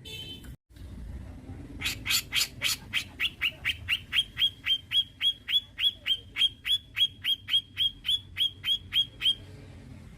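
Cucak jenggot (grey-cheeked bulbul) calling a fast run of sharp, evenly repeated notes, about three or four a second, starting about two seconds in and stopping shortly before the end.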